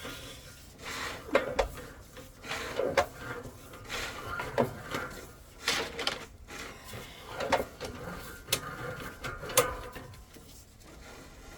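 Irregular clattering knocks and scraping rubs of equipment being handled, with a sharp click roughly every second or so.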